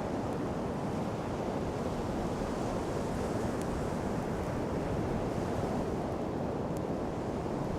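Sea surf rushing steadily on a sand beach, mixed with wind on the microphone. A few faint crackles from the wood campfire tick over it.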